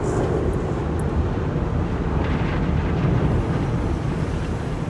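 MacNeil car wash top brush turning over the car, its cloth strips rubbing and slapping on the roof in a steady, loud scrubbing noise, heard from inside the car.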